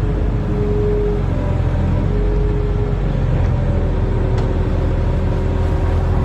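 Barge-mounted excavator's diesel engine running under load, a steady low rumble with a faint whine that comes and goes.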